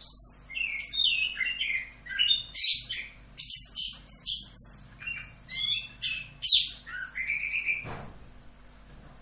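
Orange-headed thrush singing a fast, continuous run of varied whistled and chattering phrases, ending with a downward slurred note about seven seconds in, after which the song stops.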